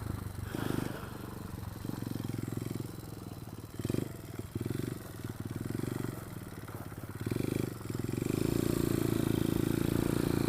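Pit bike engine running while being ridden, the throttle opened and backed off in short pulls every second or so, then held steadier and louder near the end.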